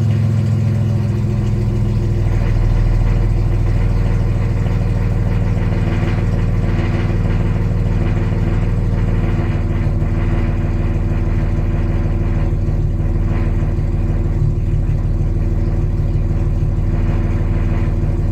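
BMW E39 528i's 2.8-litre straight-six idling steadily on a cold start.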